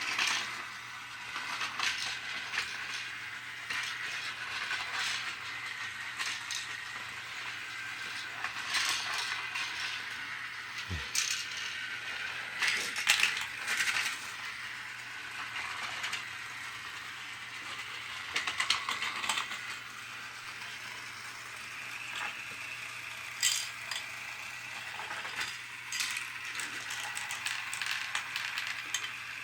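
Battery-operated toy truck set running: a small electric motor and plastic gears whir steadily, with frequent clicking and clattering of plastic parts.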